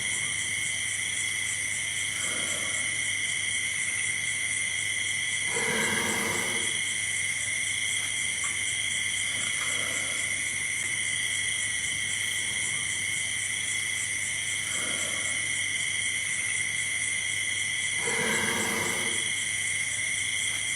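Steady shrill chorus of crickets or similar insects. A deeper animal call or grunt rises out of it several times, most clearly twice: about 6 seconds in and near the end.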